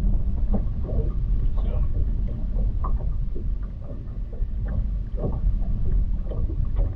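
Wind buffeting the microphone in a steady low rumble, with water slapping irregularly against a small fishing boat's hull.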